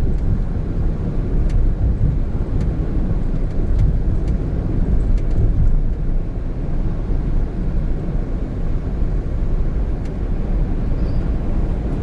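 Steady road and engine noise of a Honda N-BOX Custom's 660cc turbo three-cylinder car being driven, heard from inside the cabin as a low, even rumble, with a few faint scattered clicks.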